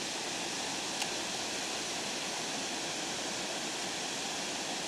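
Steady rush of water pouring over a spillway, with one short sharp click about a second in.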